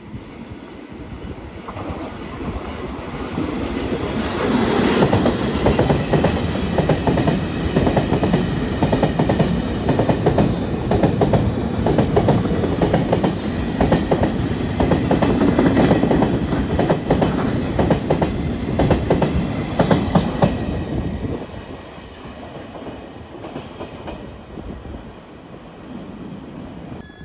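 Train passing with wheels clacking rapidly over rail joints. The sound builds over the first few seconds, stays loud for about fifteen seconds, then drops off sharply about three quarters of the way through.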